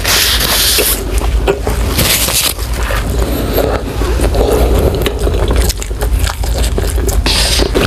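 Close-miked chewing of a mouthful of food with the mouth closed: many small wet clicks, broken by a few short bursts of hiss near the start, about two seconds in and near the end.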